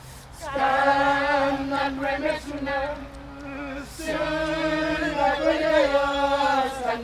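Voices chanting a traditional Papua New Guinean song in long held notes: two sung phrases with a short break between them.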